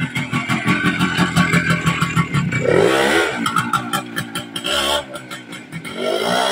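Single-cylinder two-stroke Minsk motorcycle engine, bored out to 200 cc, running during break-in. It is revved up and back down about three seconds in, and revs up again near the end.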